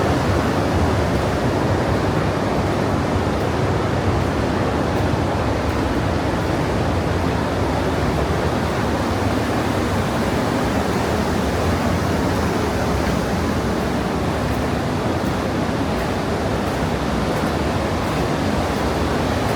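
The Partnach River, a glacial-meltwater mountain stream, rushing loudly and steadily through a narrow limestone gorge.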